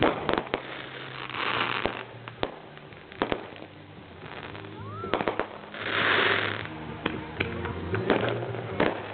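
Fireworks going off: a scattered string of sharp bangs and pops. There are bursts of crackling hiss about a second and a half in and, louder, about six seconds in, and a short rising whistle about five seconds in.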